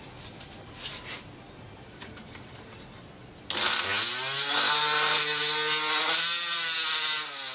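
Small electric rotary tool fitted with a sandpaper roll, starting about halfway through, spinning up to speed and running steadily with a high sanding hiss as it polishes the exhaust port of a two-stroke kart cylinder; it stops just before the end.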